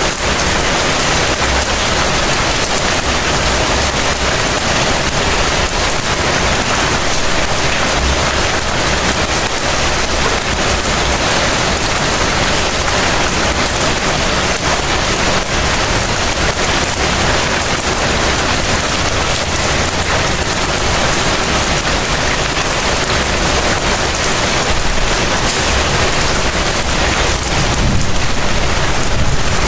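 Heavy rain falling steadily in a dense, even hiss. A low rumble swells near the end.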